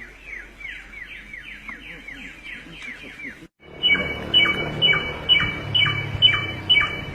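A songbird calling over and over in short notes that sweep downward, about three a second and fairly faint at first. After a brief break about three and a half seconds in, a louder run of similar falling notes follows at about two a second.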